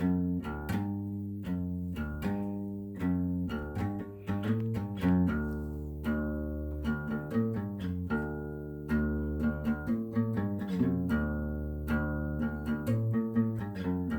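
Background music: plucked guitar, single notes picked one after another over low sustained bass notes.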